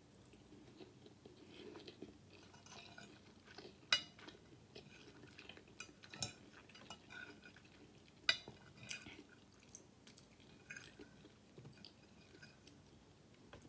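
Close-miked chewing of rice and fried chicken, with a metal fork clinking and scraping on a plate; the two sharpest clinks come about four and eight seconds in.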